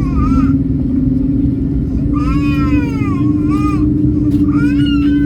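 Airliner cabin: the engines make a steady low rumble with a hum that steps up slightly about halfway through, and over it a baby cries in three separate wails, each with a bending, rising-and-falling pitch.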